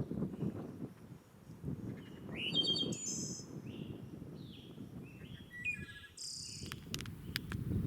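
Several birds chirping in short calls over a steady low rumble, with a few sharp clicks near the end.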